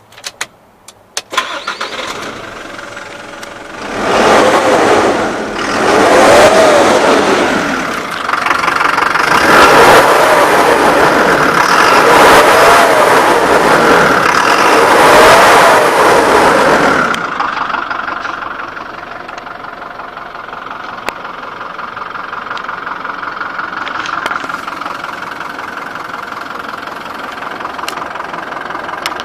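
Toyota Dyna truck's diesel engine starting after a few clicks, idling, then revved about five times. It settles back to a steady idle for the last twelve seconds.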